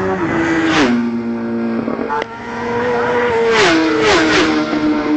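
Superbike racing motorcycles passing at speed, one after another. Each engine note drops in pitch as the bike goes by, about three times.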